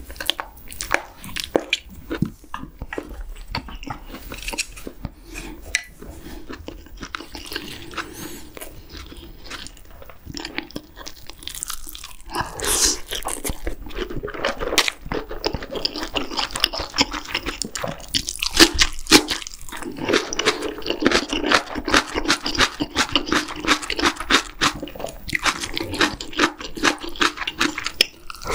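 Close-miked chewing of a mouthful of octopus hot pot with noodles and rice: quick wet smacking and crunching mouth sounds. The chewing gets louder and busier about halfway through.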